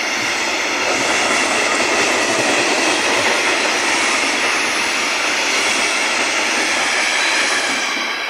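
Freight wagons rolling past at speed close by: a loud, steady rush and rattle of steel wheels on the rails, which begins to fade near the end as the last wagon goes by.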